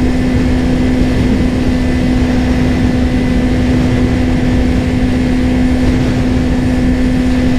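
Kawasaki Ninja 400 parallel-twin engine running at a steady cruising speed, holding one even note, under heavy wind rush on the helmet-mounted microphone.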